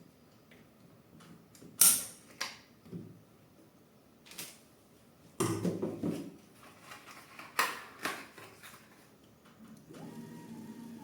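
3D printer parts and tools being handled during assembly: sharp clicks and knocks of hard plastic and metal, the loudest about two seconds in, with a stretch of rattling and handling around the middle. A faint steady hum with a thin tone starts near the end.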